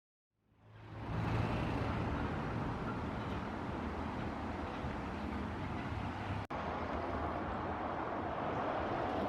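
Steady vehicle and traffic noise at a bus terminal, with a low engine hum, fading in about a second in and briefly cut off about six and a half seconds in.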